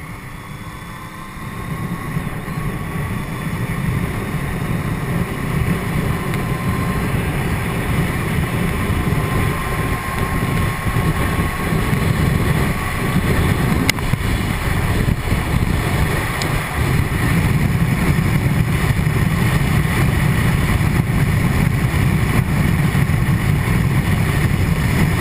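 Wind rushing and buffeting inside a motorcycle helmet behind the screen of a Triumph Tiger 800 XC while riding. It grows louder over the first few seconds as the bike picks up speed, then holds steady.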